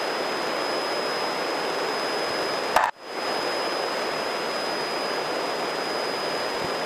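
Steady in-flight cabin noise of a Grumman light aircraft, engine and airflow heard as an even hiss through the headset intercom, with a thin high whine throughout. About three seconds in there is a sharp click and a momentary dropout of the sound.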